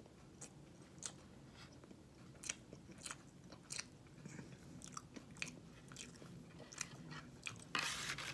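Close-up chewing of a mouthful of soft, white-chocolate-coated layer cake, with scattered wet mouth clicks. A brief rustle comes near the end.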